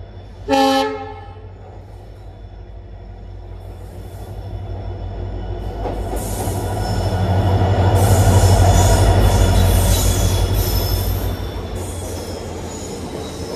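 Indian Railways train: one short horn blast about half a second in, then the train's steady low rumble and high squealing wheel noise, which build to their loudest around eight to ten seconds in and then ease.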